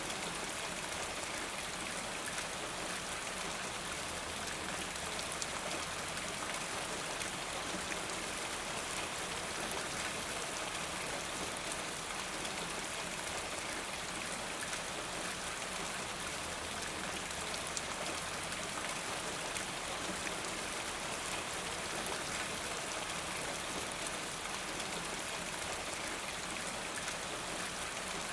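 Steady rain falling: an even hiss with many small drop ticks, unchanging in level.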